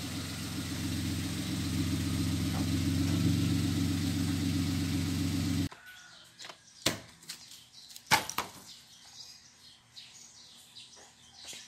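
Toyota Wigo's engine idling steadily after being restarted, then cutting off suddenly about five and a half seconds in. A quieter stretch follows with a few sharp knocks.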